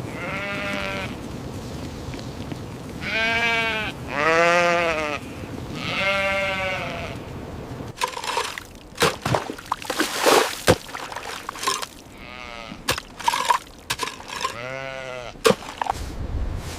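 Several short animal calls, each about a second long, rising and falling in pitch with a wavering, bleat-like quality. In the second half a run of sharp clicks and knocks comes in, with one more call near the end.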